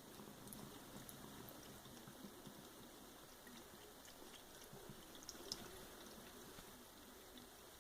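Faint trickle of water from a running tap while a cat drinks from it, with small soft licking clicks as it laps.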